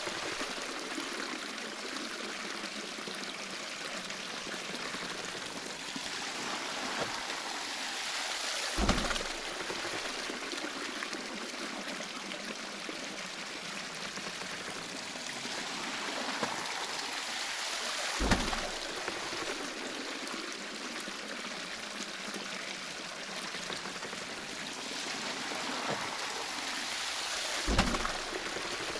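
Water pouring and streaming steadily at a traditional waterwheel, with a low thud about every nine and a half seconds, three times.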